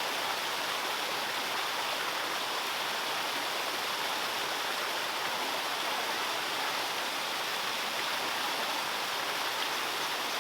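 Flowing water, a steady unbroken rush with no breaks or changes in level.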